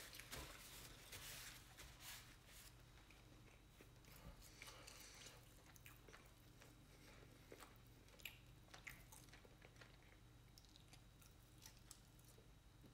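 Faint chewing of fried chicken, with scattered soft clicks and crackles as the pieces are pulled apart by hand, over a low steady hum.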